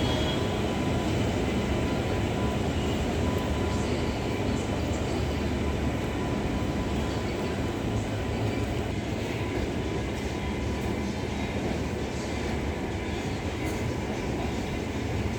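Passenger train running past at low speed, a steady rumble of wheels on track and carriages.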